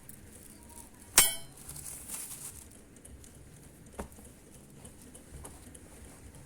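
Tableware clinking: one sharp, ringing clink about a second in, then a softer knock near four seconds.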